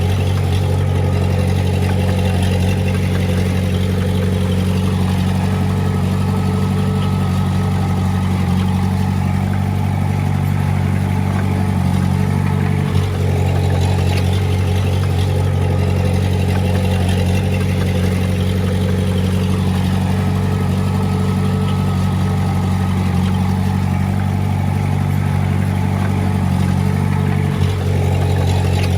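Diesel engine of a Komatsu D20A bulldozer running steadily at an even pitch, with two brief knocks partway through.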